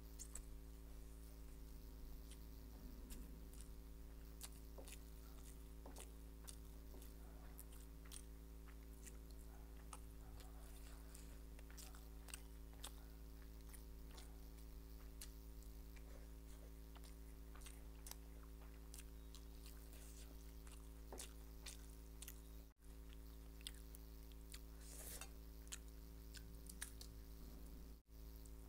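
Quiet, close-up chewing and mouth sounds of a person eating Schezwan noodles by hand: many soft wet clicks and smacks over a steady low hum. The sound drops out briefly twice near the end.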